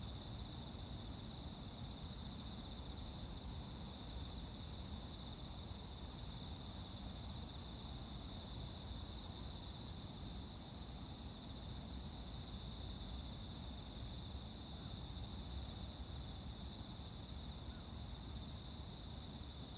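Insects, crickets among them, trilling in a continuous high-pitched chorus at two steady pitches, over a low background rumble.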